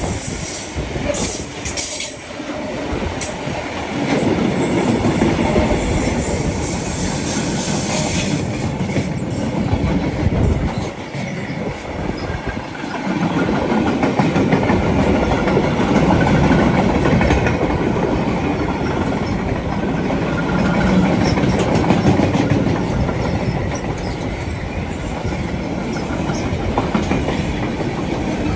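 A train passing along the line, loud and continuous, with a brief lull about eleven seconds in.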